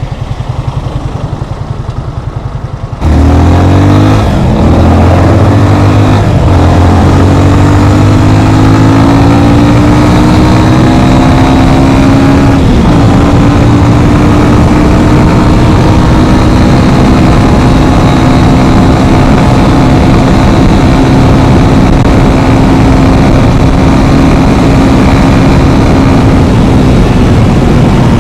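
Yamaha FZ25's single-cylinder engine ticking over, then pulling away about three seconds in. It revs up through the gears with a drop in pitch at each shift, then runs at a steady cruise.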